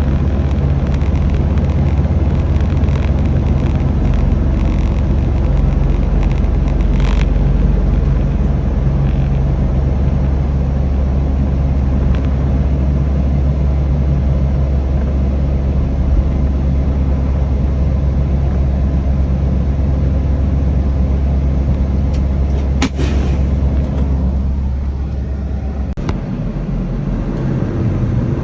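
Semi truck's diesel engine running steadily under way, heard from the cab, with a deep low drone. A sharp click comes about 23 seconds in, and a few seconds later the engine note drops away as the truck eases off.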